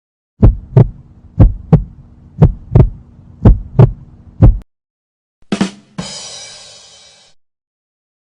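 Heartbeat sound effect: deep double thumps about a second apart, four lub-dub pairs and a last single beat, over a faint steady hum. After a short gap comes a quick double drum hit and a crash that fades out over about a second.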